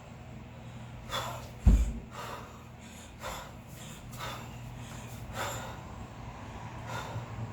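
A kettlebell lifter breathing in short, forceful bursts through the nose and mouth, roughly once a second, while working double 16 kg kettlebells through a long cycle set. A single dull thump comes about two seconds in.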